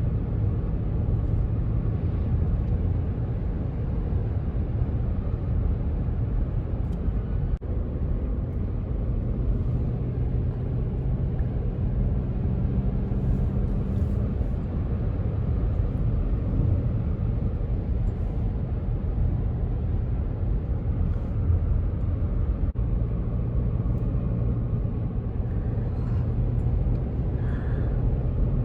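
Steady low rumble of a moving road vehicle, with a faint even hum.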